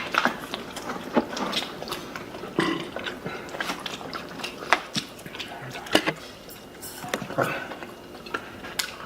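People eating: chewing and wet mouth noises, with irregular sharp clicks and knocks of utensils and food containers.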